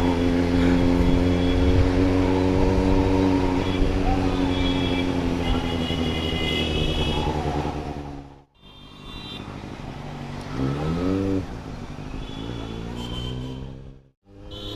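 Superbike engine running at a steady, slowly easing note. Then, past the middle, it revs up briefly in a short rising whine. The sound breaks off abruptly twice.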